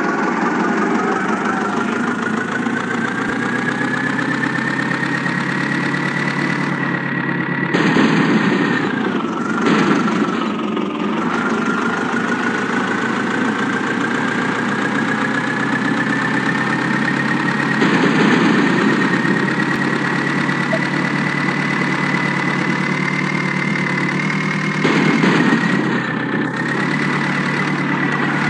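A motor running steadily with a high whine that slowly climbs in pitch. The whine sags briefly about ten seconds in, then climbs again. Short louder surges come several times.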